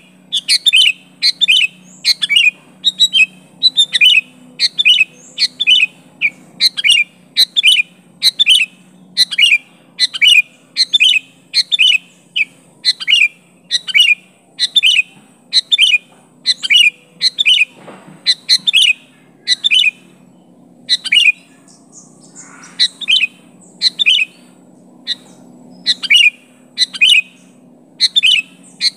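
Sooty-headed bulbul (kutilang) calling in a rapid, insistent series of short, bright notes, about one to two a second, with a short break about two-thirds of the way through, as a male answering a rival.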